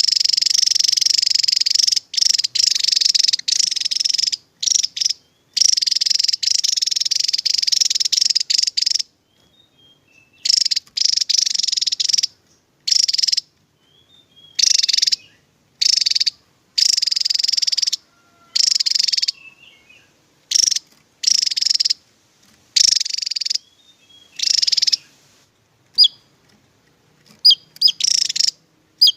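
Javan tesia singing its rapid, high-pitched trilled song. The song runs almost unbroken for the first several seconds, then comes in bursts of about a second with sharp starts and stops and silent gaps between, and ends with a few short chirps.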